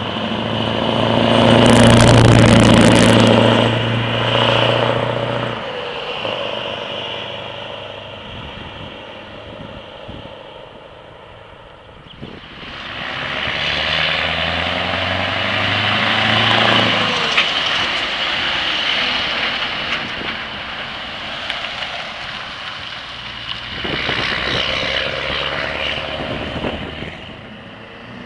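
Scania V8 diesel truck engines pulling away and passing, loudest about two seconds in, then fading. The engine sound swells again around the middle and once more near the end as the trucks drive off.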